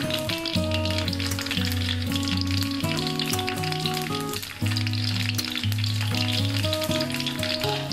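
Peanuts sizzling and crackling as they fry in hot oil in a wok, stirred now and then with a metal spatula. Background music with held notes plays under the frying.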